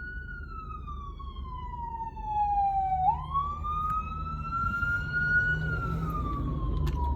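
Fire engine siren on a slow wail: the pitch falls over about three seconds, sweeps back up, then falls again. A low rumble runs underneath, and the siren grows louder about two seconds in.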